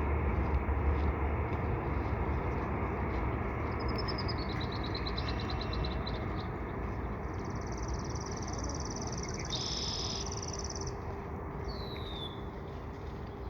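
Steady rumble of a distant passing train, slowly fading. Birds chirp over it: a falling series of notes, then a long rapid trill, then a short falling note near the end.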